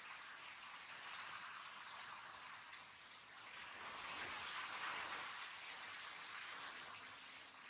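Steady rain falling on paving and hard surfaces, an even hiss that swells a little around the middle, with a couple of light sharp clicks a little past halfway.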